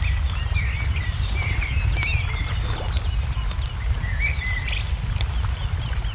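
Crackling wood fire and birdsong over a steady low rumble: scattered sharp crackles, with a bird's warbling calls during the first two seconds and again a little after four seconds.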